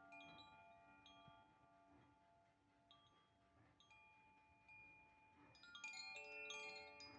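Wind chime (Klangspiel) played by hand, its tones struck one at a time and ringing on, overlapping each other. The strikes thin out and fade in the middle, then come in a quick cluster of several near the end.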